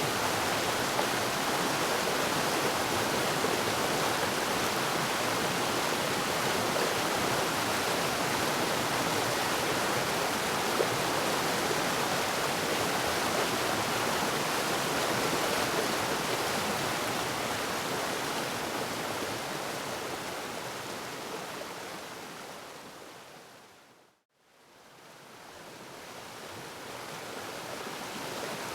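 Waterfall rushing steadily, a dense even roar of falling water; about three-quarters of the way through it fades out to a moment of silence and then fades back in.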